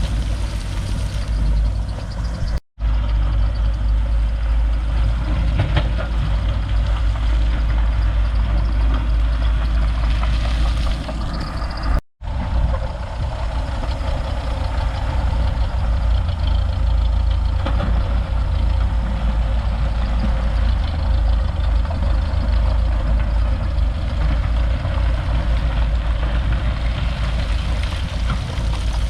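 Heavy diesel engine of earth-moving equipment running steadily with a deep low rumble, cutting out to silence for an instant twice, about three and twelve seconds in.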